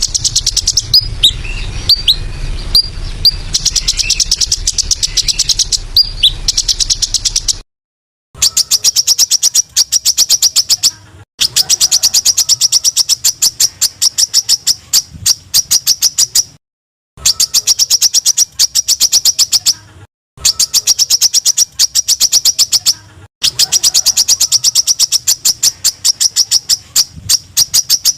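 Small songbird giving rapid runs of sharp, high repeated notes, many a second, in phrases of a few seconds separated by short silences: the clipped 'tembakan' calls used to tutor songbirds. In the first few seconds, a separate recording: scattered whistled notes over a steady insect drone, cutting off about eight seconds in.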